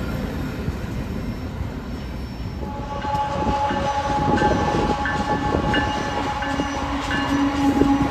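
Freight train rolling past with a dense rumble; about three seconds in this gives way to a railroad crossing bell dinging about one and a half times a second under a sustained train horn.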